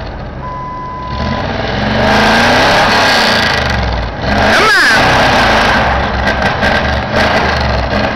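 Ford 4x4 truck's 351M V8 engine revving hard under load in snow and mud: the pitch climbs about two seconds in, swings sharply up and back down near five seconds, then keeps running with a clatter of knocks and clicks near the end.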